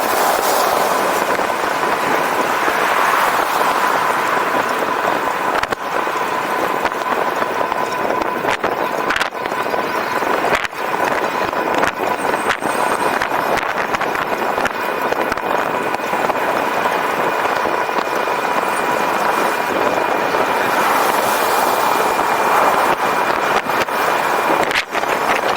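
Steady wind and road noise from a moving e-bike, with a constant high whine and now and then a short knock or rattle.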